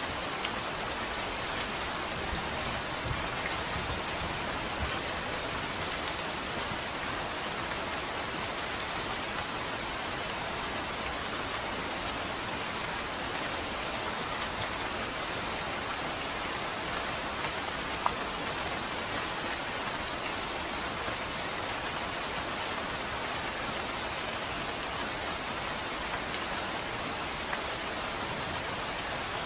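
Steady rain falling on a surface, with scattered louder drop ticks and one sharp drip about two-thirds of the way through.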